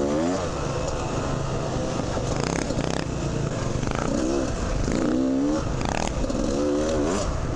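Two-stroke dirt bike engine heard from the rider's camera, revving up and falling back several times as the throttle is worked along a trail, over a steady rush of noise.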